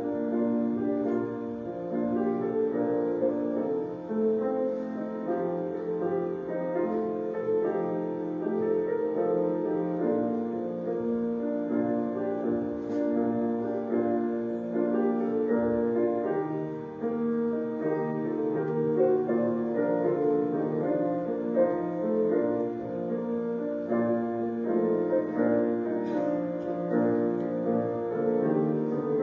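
Piano music: a slow offertory played on the piano.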